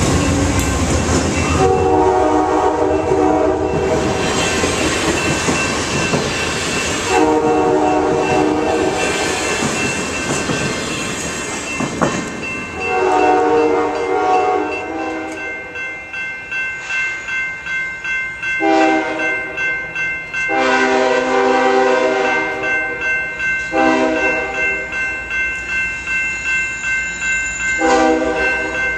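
Diesel locomotive multi-chime air horn sounding a series of seven blasts, some long and some short, over the rumble and wheel clatter of a passing train. A steady high-pitched ring runs under the later blasts.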